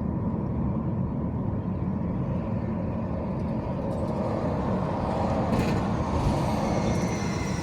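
Steady road and engine noise of a car driving, with a faint high squeal that glides slightly downward in the last two seconds or so.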